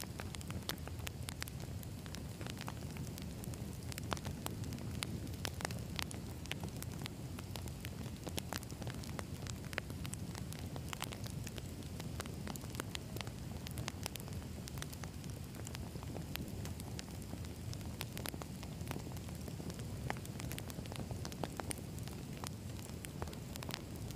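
Wood fire burning, a low steady rumble of flames with frequent irregular crackles and pops from the logs.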